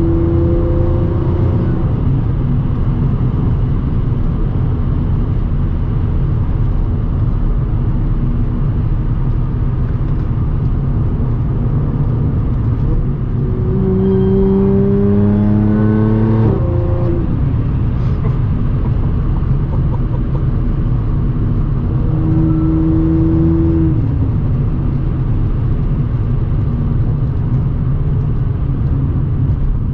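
Audi S4 B8.5's supercharged 3.0-litre V6 running through an AWE exhaust with test pipes, cruising with a steady drone. About halfway through, the engine note climbs for a few seconds and then drops suddenly, and a shorter burst of engine note follows later.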